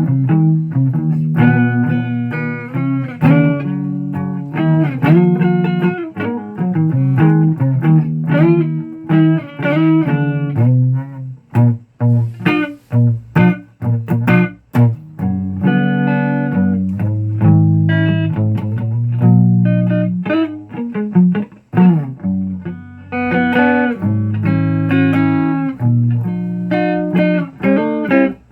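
Guitar music: a run of plucked notes over a low line, with a stretch of short, clipped notes about halfway through.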